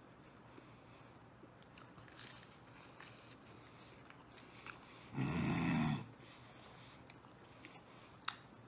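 A man chewing a mouthful of deep-dish pizza, with faint wet chewing clicks. About five seconds in, a short low vocal sound just under a second long from the eater is the loudest thing. A single sharp click comes near the end.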